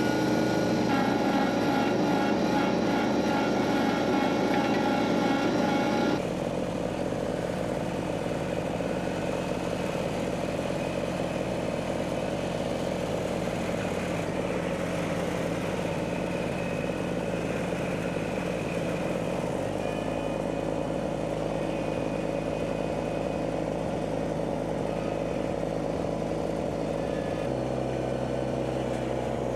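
An engine running steadily at constant speed. Its tone shifts abruptly about six seconds in and twice more in the second half.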